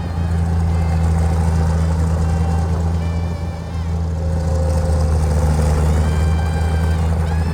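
Tractor diesel engine running steadily while ploughing a flooded rice paddy, a deep continuous drone that eases briefly about three and a half seconds in. Faint high wavering chirps sound over it now and then.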